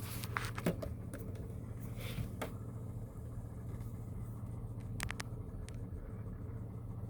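Pickup truck engine idling with a steady low hum, heard from inside the cab, with a few faint clicks.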